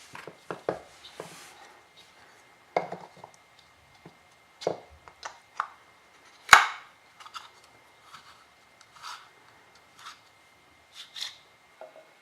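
Irregular clicks, taps and knocks of parts and tools being handled while a paramotor's pull-start recoil assembly is worked on, with one sharper, louder knock about halfway through.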